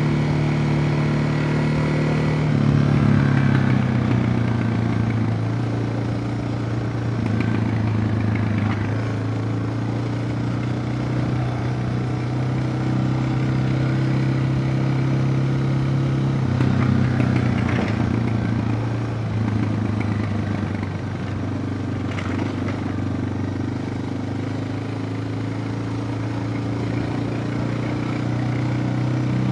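Suzuki DR650's single-cylinder four-stroke engine running steadily while riding. Its pitch drops a step about two seconds in and climbs slowly near the end, with a few brief knocks along the way.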